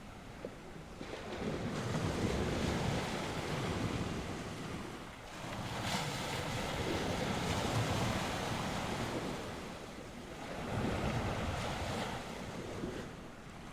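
North Sea surf: waves breaking and washing ashore in slow swells about every four to five seconds, with wind buffeting the microphone.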